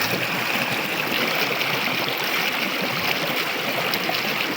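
River water flowing, a steady rushing sound with no breaks.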